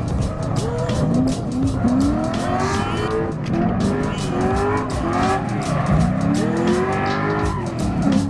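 Drift car engine revving up and down again and again in short rising sweeps, with tyres skidding and squealing.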